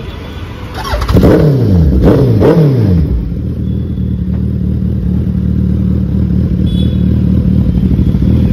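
Suzuki Hayabusa's inline-four engine revved twice in quick blips about a second apart, the pitch falling back after each. It then settles into a steady idle.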